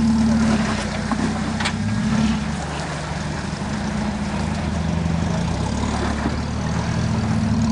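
Off-road vehicle's engine running at low revs while crawling over rocks, its note slowly rising and falling with the throttle. A couple of short sharp knocks about one and two seconds in.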